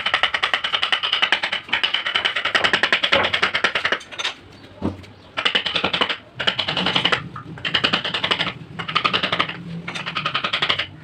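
A carving tool tapping rapidly and evenly into wood, many light ticks a second, in runs of a second or two with short pauses between, and one duller knock a little before the middle.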